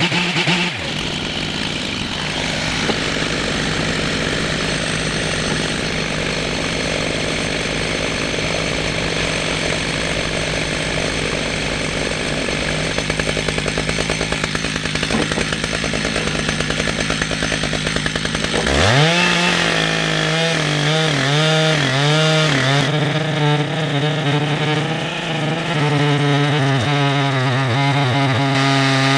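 Two-stroke chainsaw ripping a red oak log lengthwise in a chainsaw mill, running steadily under load through the cut. About two-thirds of the way through, the sound turns clearer and the engine pitch begins to waver up and down.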